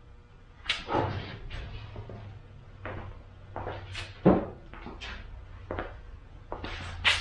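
Irregular knocks, clanks and short scrapes of work on a metal cabinet, the loudest a sharp thump about four seconds in, over a faint low steady hum.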